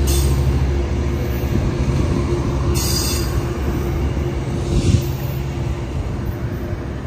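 Metrolink commuter train's diesel locomotive running at the platform with a steady low hum that slowly fades, with two short high-pitched bursts about three and five seconds in.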